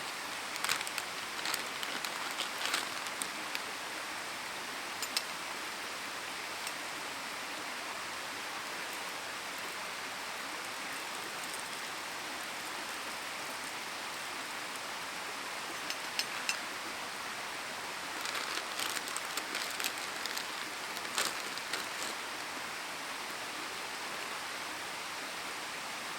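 Wood campfire crackling and popping in short flurries over a steady hiss.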